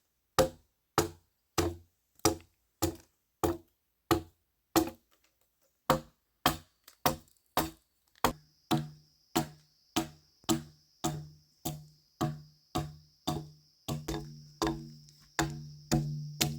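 Steady, rhythmic blows of a tool on wood, about one and a half a second, with a short break partway through. Later strikes ring on briefly, and a steady high buzz joins about halfway in.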